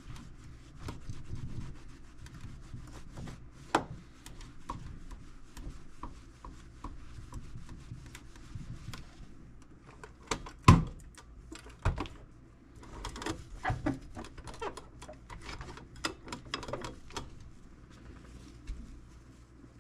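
Microfiber cloth rubbing and wiping cleaning wax over a tool box's surface, with scattered clicks and knocks as it is worked; the loudest knock comes about halfway through.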